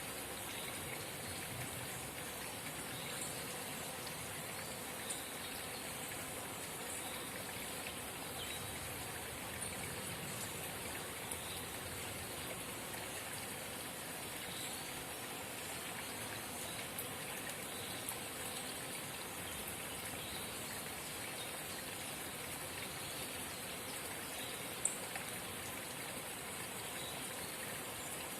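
Water of a small forest spring trickling and babbling steadily, with faint high ticks scattered through it and a sharper click about five seconds in and another near the end.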